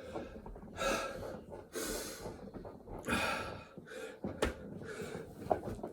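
A person breathing hard and gasping from the exertion of repeated burpees, in several separate heavy breaths. A couple of short knocks come in the second half.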